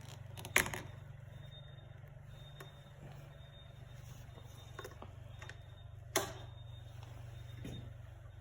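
Wado Sangyo SXC1070H engine running steadily at a low, even pulse, with two sharp clicks, one about half a second in and one about six seconds in.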